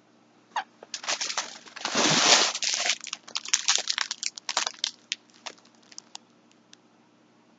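Crinkly packaging of yarn skeins being handled, in bursts of crackling that are loudest about two seconds in and thin out to a few scattered crackles after about five seconds.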